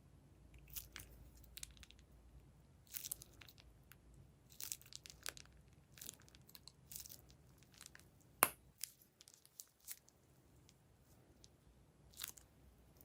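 Plastic piping bags handled and torn open, with irregular crinkling and crackling and a sharp click about eight seconds in.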